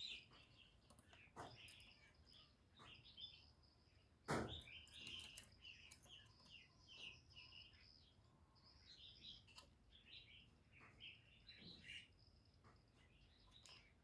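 Faint chirping of small birds: many short, high notes in quick runs, over a faint steady high tone. A single knock about four seconds in is the loudest sound.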